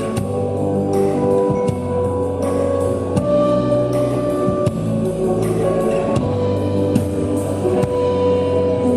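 Live band music: a drum kit beating under held chords.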